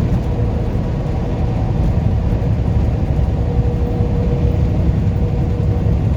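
Steady low drone of a semi truck's diesel engine and tyre noise at highway cruising speed, heard inside the cab, with a faint steady hum running through it.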